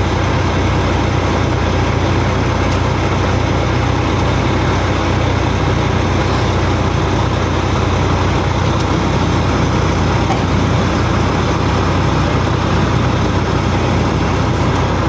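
Steady vehicle running noise: an even, unbroken rumble with a low hum.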